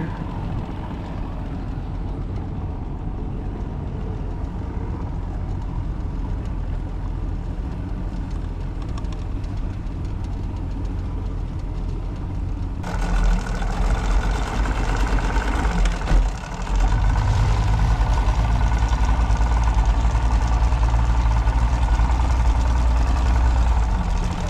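Boat's outboard motor running steadily, a low engine hum. About halfway in, a hiss of water and air joins it, and near three quarters of the way the engine gets louder.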